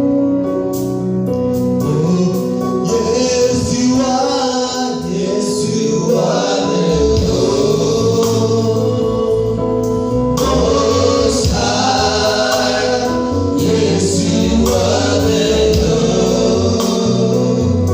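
Gospel worship music with a choir singing. A deep bass line comes in about seven seconds in.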